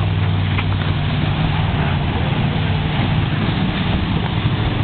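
Car engines running at a speedway: a steady low engine drone over a dense, rough noise, with no sharp events.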